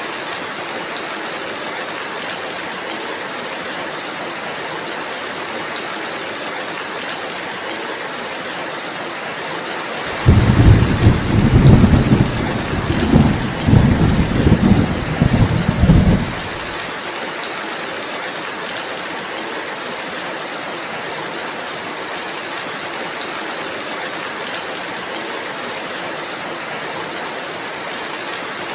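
Steady rainfall. About ten seconds in, a loud rumble of thunder starts suddenly, rolls in several swells for about six seconds, and stops.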